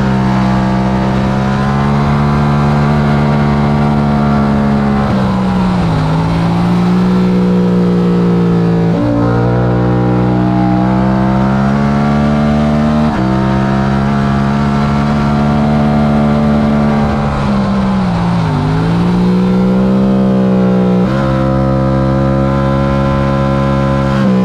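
Yamaha R7's stock 689 cc parallel-twin engine running hard at racing revs. Twice the revs fall away and climb back, as when braking into a corner and accelerating out, with a few sudden pitch steps at the gear changes.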